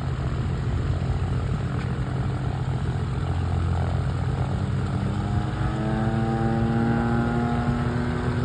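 Light propeller airplane's piston engine running with a steady low drone, its pitch rising steadily from about five seconds in.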